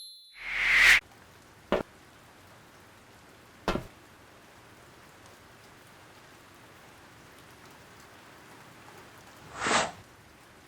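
Steady light rain hiss from a cartoon soundtrack. It is broken by a loud swelling whoosh in the first second, two short sharp hits about two and four seconds in, and another swelling whoosh near the end.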